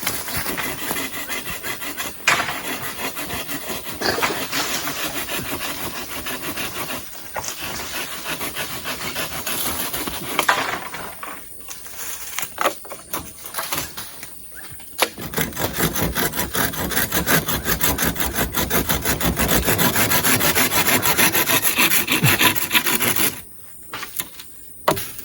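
Wood being sawn by hand in steady back-and-forth strokes. The strokes ease off briefly about halfway, then come back stronger, and stop shortly before the end.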